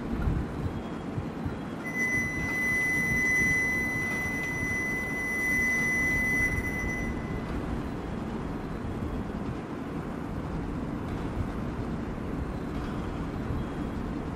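Low, steady hum of a Shinkansen train standing at a station platform. About two seconds in, a steady high electronic warning tone starts and holds for about five seconds before stopping.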